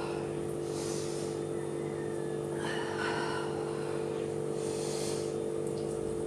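A woman breathing hard through slow dumbbell overhead-press reps, a breath about every two seconds, over a steady electrical hum.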